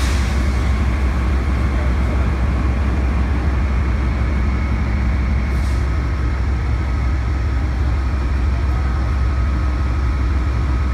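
Amtrak Cascades train standing at the platform, giving off a loud, steady low hum with a few faint higher whines, without change.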